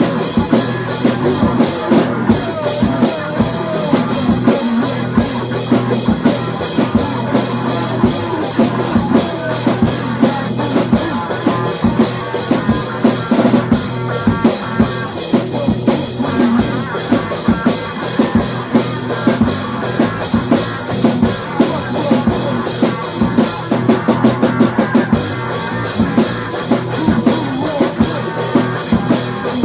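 Rock music without vocals, led by a drum kit beating out a steady rhythm on kick and snare.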